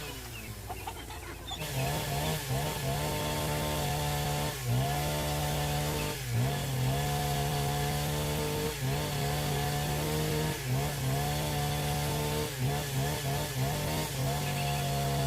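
A motor-driven wood-cutting tool running at speed, its pitch dipping briefly every couple of seconds as it bites into the wood. It starts quieter and settles into a steady drone after a second or two.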